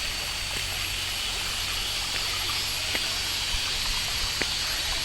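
Steady rushing of the Huay Kaew waterfall and stream water, with a constant low rumble, a thin high steady whine above it and a few faint ticks.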